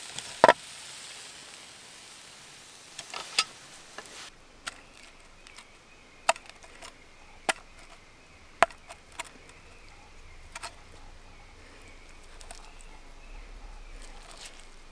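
Wood burning in a campfire, popping and cracking with about a dozen sharp, irregular snaps over a quiet background. The loudest snap comes about half a second in.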